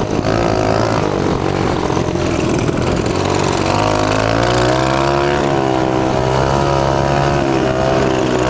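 Small mini bike engine running while being ridden: rough and uneven at first, then rising in pitch about four seconds in and holding a steady note.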